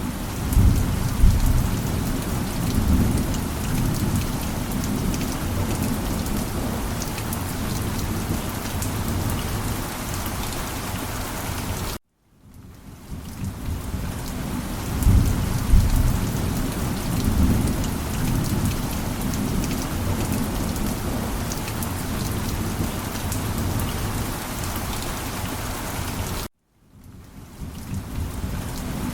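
Heavy rain falling steadily, with low rolls of thunder swelling twice. Twice the sound cuts out to silence for a moment and fades back in.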